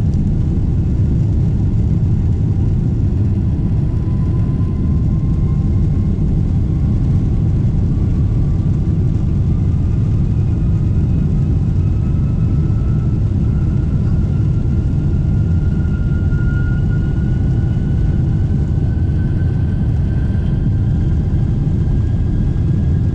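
Boeing 747-8's jet engines running: a loud, steady rumble with a whine that rises slowly in pitch over about twenty seconds.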